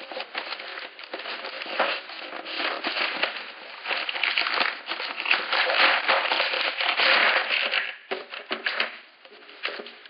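Toy set packaging being opened by hand: plastic and cardboard crinkling, rustling and crackling in irregular bursts, busiest mid-way and easing off near the end.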